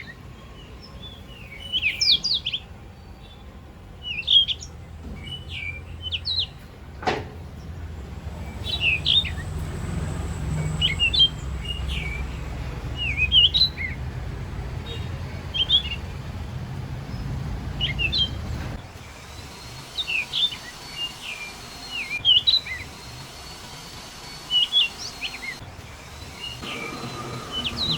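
Birds chirping repeatedly, short high chirps every second or two. A low rumble underneath runs from about a quarter of the way in to about two-thirds, and there is a single sharp click about a quarter of the way in.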